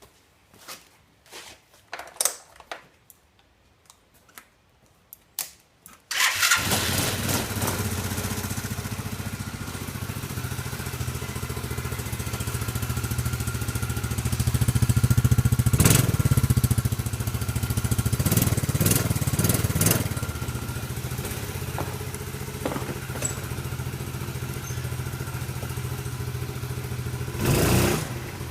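A few clicks and knocks, then about six seconds in the 110cc Gio quad's small single-cylinder engine catches on a cold start and runs steadily, getting louder for a while around the middle, with a few sharp knocks over it.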